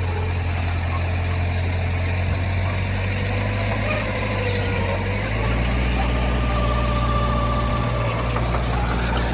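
Diesel engine of heavy earthmoving machinery running steadily, its note shifting about five seconds in.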